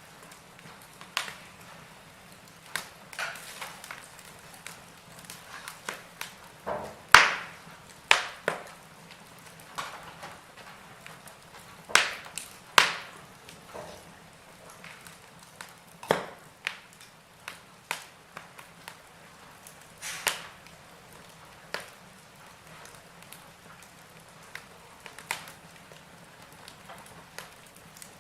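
Wood fire burning in a fireplace, logs crackling and popping at irregular intervals over a faint low hiss of flame.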